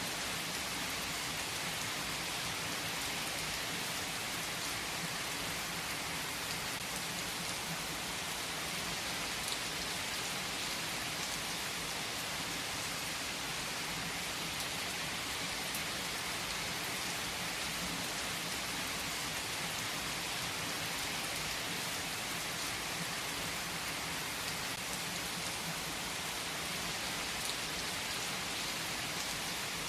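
Steady rain falling on a surface, an even hiss with faint individual drop ticks.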